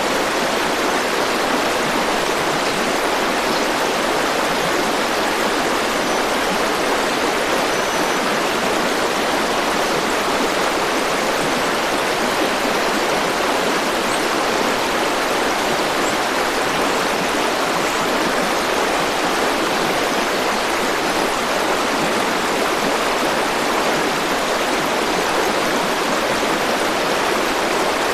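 A river flowing: a steady, even rush of water that does not change in level.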